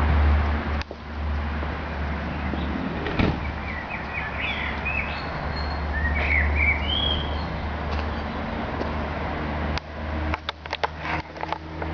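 Citroen Xsara turbo diesel engine idling with a steady low hum, birds chirping briefly in the middle, and a short run of clicks near the end.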